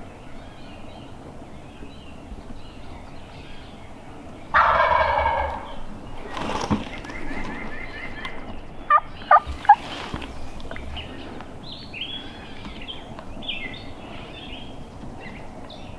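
A wild turkey gobbler gobbles once, loud and close, about four and a half seconds in. A few seconds later come three short sharp sounds, and small birds chirp faintly near the end.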